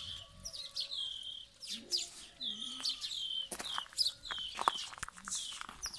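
Small birds chirping over and over. Each chirp is a quick, high falling note, and several come each second.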